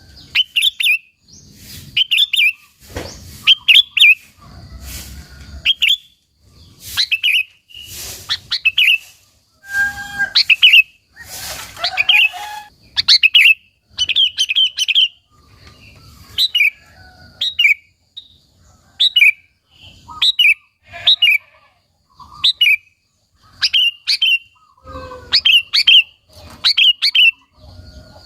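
Sooty-headed bulbul (kutilang) singing over and over in short, quick phrases of a few clear notes, about one phrase a second with brief pauses between them.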